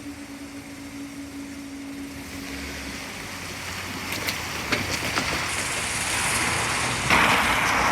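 A vehicle approaching and growing steadily louder, with a few sharp clicks about two thirds of the way through and a sudden rise in loudness near the end. Two steady tones die away in the first few seconds.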